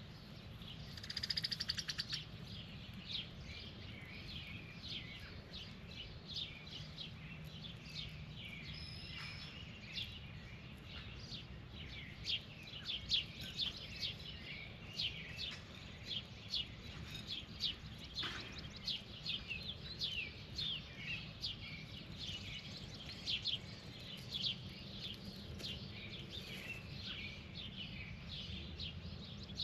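Birds chirping in quick, short calls, several a second, with a harsher buzzy call about a second in, over a steady low hum.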